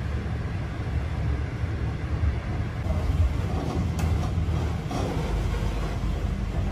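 Slow conventional passenger train running on the rails, heard from inside the carriage as a steady low rumble, with a single faint click about four seconds in.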